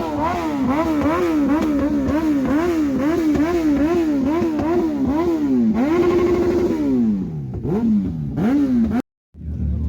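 Motorcycle engine revved over and over, about two quick throttle blips a second. It then holds high for a moment, drops away, and is revved twice more before the sound cuts off suddenly near the end.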